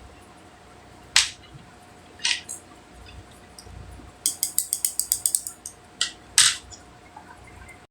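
Sharp clicks and snaps of plastic makeup packaging being handled. There are a few single snaps, then a quick run of about a dozen clicks, then two more snaps.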